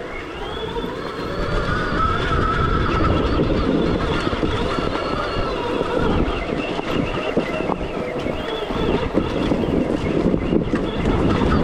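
Stark Varg EX electric dirt bike's motor whining as it is ridden, the whine rising and falling with the throttle over rough rattling and wind noise from the ride.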